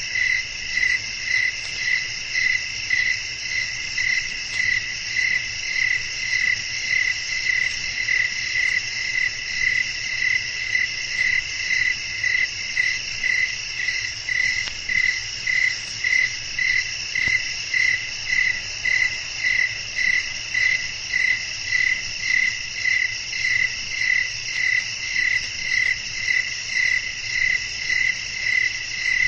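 Night chorus of crickets: a steady high trill under a louder chirp that repeats evenly, about three times every two seconds.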